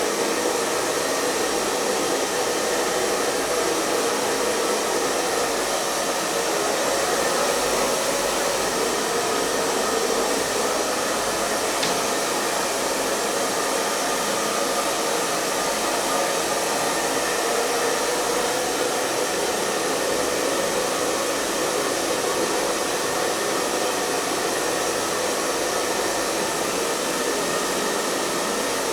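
Hair dryer running continuously on one setting: a steady rush of blown air over the motor's hum.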